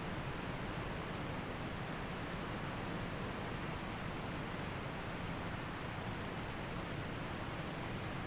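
Waterfall and creek water rushing steadily, an even wash of noise that doesn't change.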